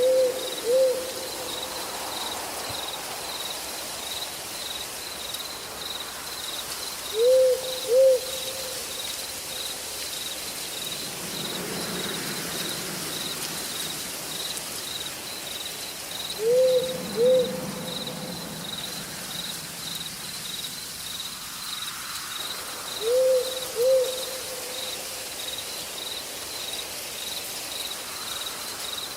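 An owl hooting in pairs of two short hoots, four times, about every seven to eight seconds, over a steady pulsing trill of insects and an even background hiss of night forest.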